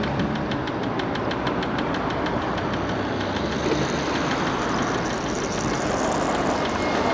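Electric scooter ride: a steady rush of wind and road noise, with a rapid regular ticking of about five clicks a second through the first half that fades out.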